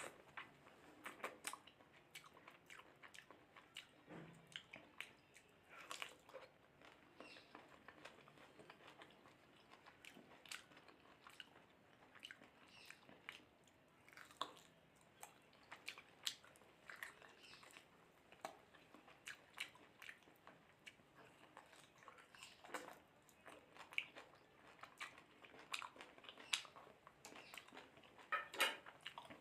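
A person chewing and eating mutton rogan josh with rice and gravy: irregular short mouth clicks and chewing noises, close to the microphone.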